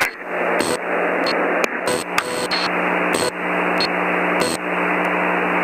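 Aircraft radio static in the gap between loops of a recorded ATIS broadcast: a steady narrow-band hiss with a low steady hum and a few faint clicks.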